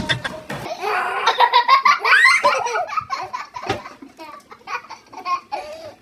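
People laughing in pulsing bursts, loudest in the first half and trailing off into scattered chuckles.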